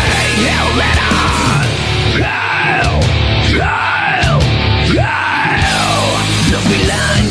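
Heavy rock/metal band music: dense, loud full-band sound with a high line that swoops up and falls in pitch about once a second.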